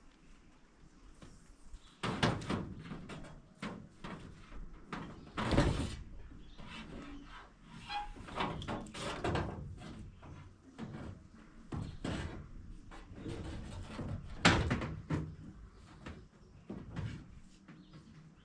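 Irregular knocks, clunks and clatter of objects being handled and set down, the loudest about five seconds in and again near fourteen seconds.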